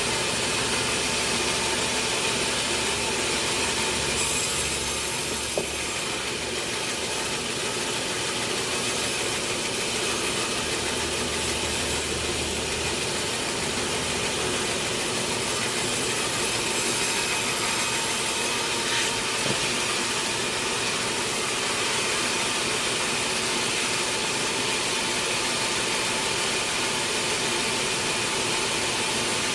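Sawmill saw cutting through a large teak log: a steady, unbroken sawing noise over a running motor.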